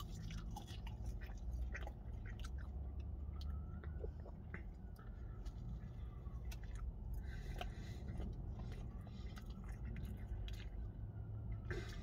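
Close-up chewing and biting with many small crunchy clicks, over a steady low hum: a person eating a chip, then biting into and chewing a chicken burger.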